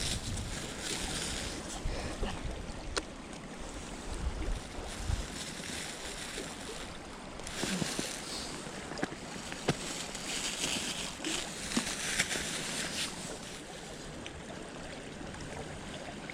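Wind buffeting the microphone and rustling footsteps through the woods, in uneven spells, with a couple of sharp clicks. The wind rumble is strongest in the first few seconds.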